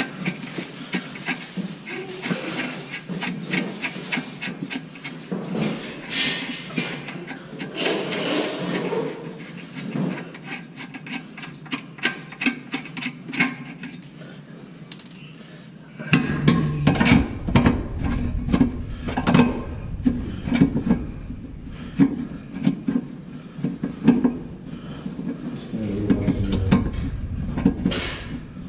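Hand tools working on metal: irregular clicks and clanks of wrenches on the engine mount bolts, louder and fuller from a little past halfway.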